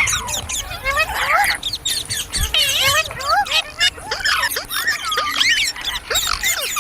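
Indian ringneck parakeet chattering: a rapid run of short, overlapping chirps and squawks that rise and fall in pitch.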